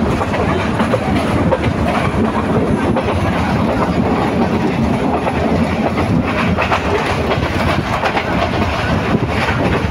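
Bangladesh Railway passenger train running at speed, heard through an open coach window: a steady, loud rumble and rattle of the wheels on the track.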